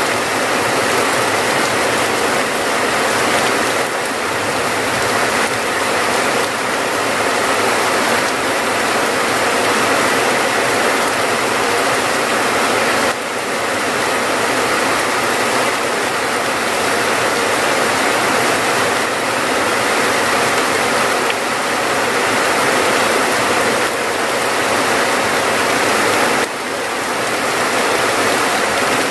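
Steady heavy rainfall, a dense, even hiss of countless drops, with brief dips in level about thirteen seconds in and again near the end.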